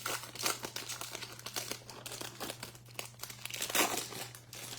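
A plastic foil wrapper of a baseball trading-card pack crinkling and tearing as it is opened by hand, in a quick run of crackles that peaks about four seconds in.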